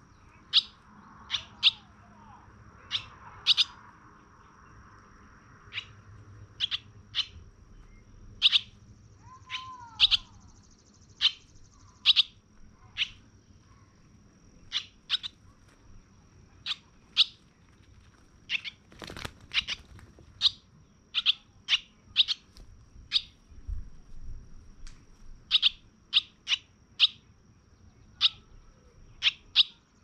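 A small bird chirping: short, sharp chirps repeated over and over, about one or two a second, over a faint steady high tone.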